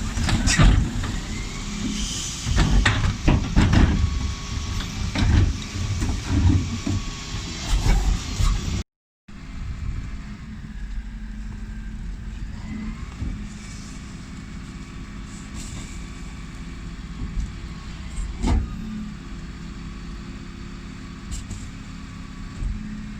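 Dennis Elite 6 refuse lorry at work: a run of loud clanks and bangs over the engine for the first several seconds. After a short break the engine runs steadily and more quietly, with a single knock later on.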